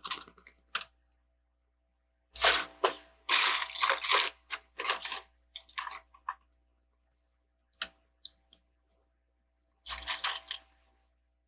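Plastic Lego bricks clattering against each other as loose pieces are rummaged through, in runs of quick clicks: a long run from about two seconds in to about six seconds, a few single clicks, then a shorter run near the end.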